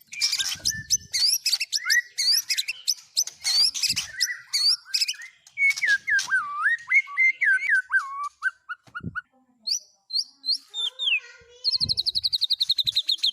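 Songbird song: a quick jumble of sharp chirps and whistles, then a run of slurred whistled notes dropping in pitch, and a rapid high trill near the end.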